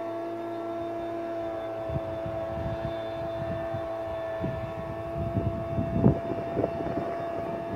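Small engine running at a steady speed, droning on one unchanging pitch, with low buffeting thumps on the microphone from about two seconds in and a sharper knock near six seconds.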